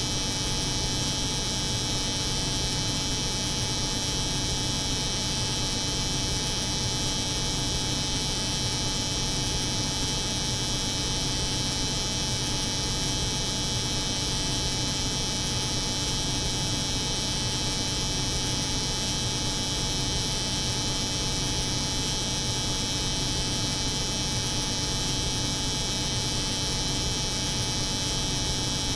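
Steady, unchanging layered mix of a cold room's refrigeration hum and an electric hair clipper's buzz.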